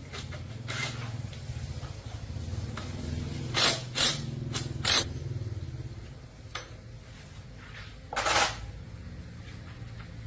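Single-cylinder four-stroke 110cc Honda motorcycle engine running steadily at idle, with four short, loud, hissing bursts over it, about a third of the way in and again near two-thirds of the way.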